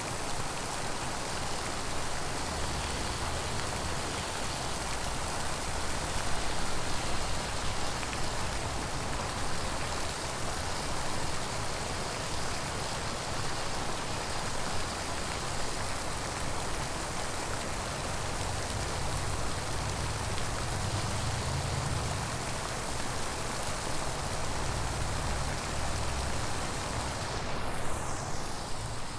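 Steady rushing, splashing water, with a low rumble underneath.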